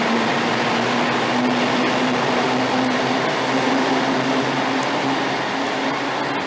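TransPennine Express passenger train moving past at close range and pulling away: a steady hum over the noise of wheels on rail, easing slightly near the end as the rear of the train draws away.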